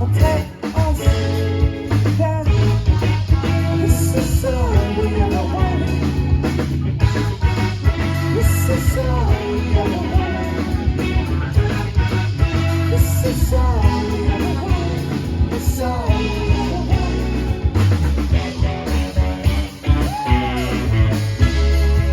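Live rock band playing amplified music with electric guitar, heavy bass and drums, the guitar playing bending melodic lines.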